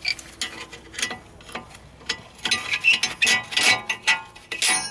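Irregular metallic clicks, clinks and scraping as pliers work a part out of the brake hardware, busiest in the second half.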